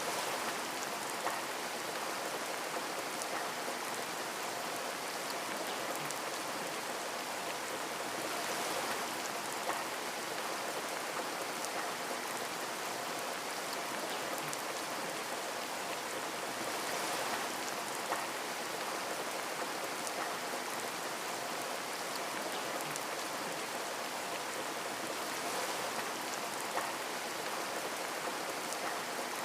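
Steady rain pattering on a window, a dense even hiss with scattered sharper drop taps.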